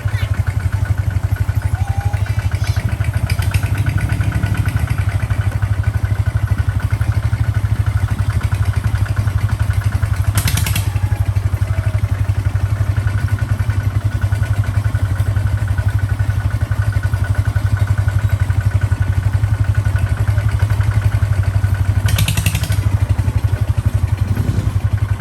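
Kubota tractor's diesel engine running steadily under load, a fast even low-pitched chugging. A short rush of noise cuts in about ten seconds in and again near the end.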